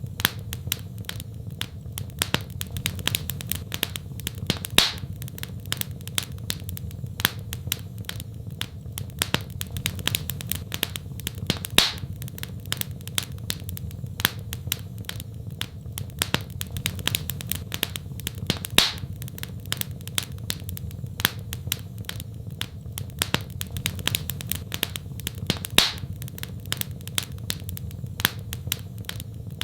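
Wood fire in a fireplace crackling: a dense run of small snaps and clicks over a steady low hum, with a louder pop about every seven seconds.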